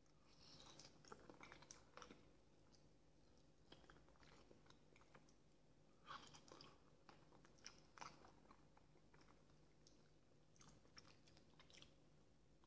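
Faint close-up chewing of soft boiled potato vareniki in sour cream: moist biting and mouth clicks coming in three short spells, over a low steady hum.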